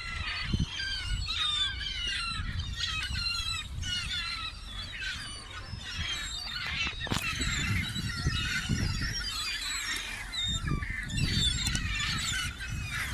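A large flock of seagulls calling over one another: many short, high, wavering cries overlapping without pause, over a low rumble.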